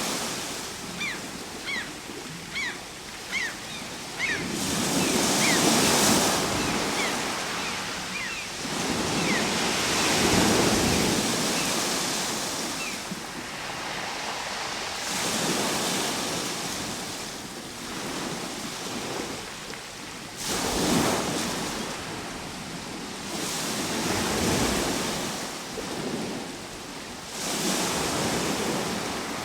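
Ocean surf: waves wash in and fall back, swelling about every five seconds, six times in all. A run of short, high chirps falling in pitch sounds over them during the first nine seconds.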